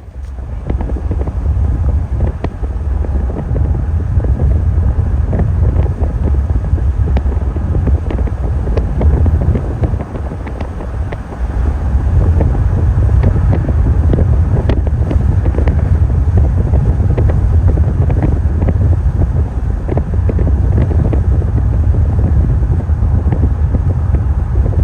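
Wind buffeting the microphone in gusts, a loud low rumble that eases briefly around the middle and comes back stronger.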